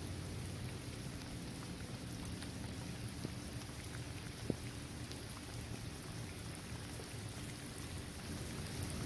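Steady rain falling on a paved basketball court, trees and grass, with scattered individual drops tapping. One sharper drop lands about halfway through.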